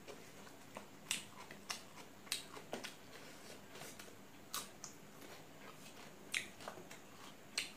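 Close-up mouth sounds of a person eating raw vegetable salad with her fingers: irregular crisp crunches and wet mouth clicks as she chews, about one every second or so.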